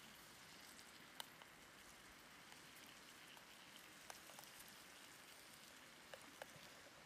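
Faint steady sizzling from salmon cooking in a pan over a Firebox wood stove, with a few light clicks as utensils touch the pan.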